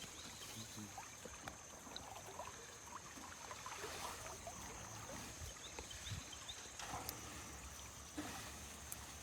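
Faint outdoor ambience at the riverside: a soft steady hiss with scattered small clicks and rustles, and a faint steady high-pitched whine.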